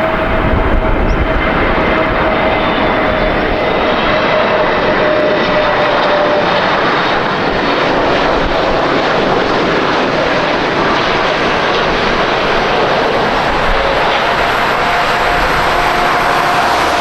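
Engine noise of a jet airliner close by: a loud, steady rush of jet noise with a faint whine that sags slightly in pitch, fades out, then comes back near the end.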